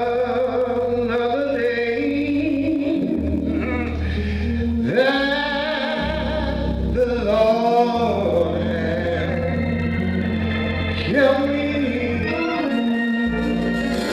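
Slow gospel singing with organ accompaniment: voices hold long, sliding notes over sustained organ bass chords.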